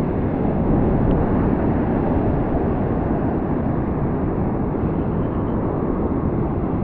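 Steady low rumbling noise of wind buffeting the microphone over the sound of surf.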